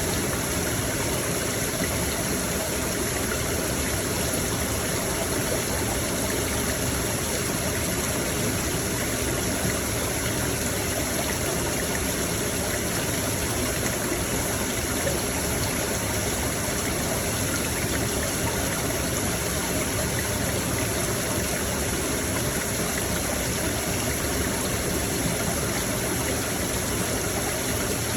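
Clear mountain stream flowing over and between rocks, a steady rushing, gurgling wash of water.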